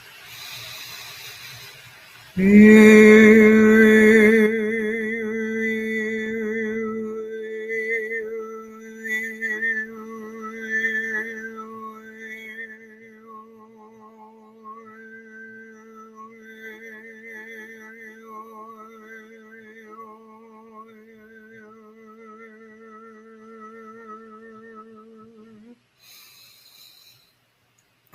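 Singing bowl sounding about two seconds in, then ringing on as a steady, wavering low tone that stops suddenly near the end. Above it, a high wordless toning line glides up and down.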